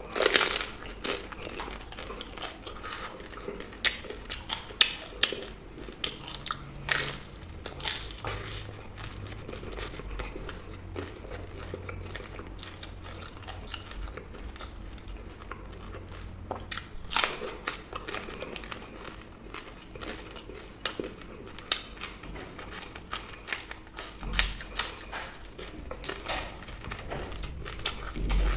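A person biting and chewing crunchy food close to the microphone, with many sharp crisp crunches and softer chewing between them.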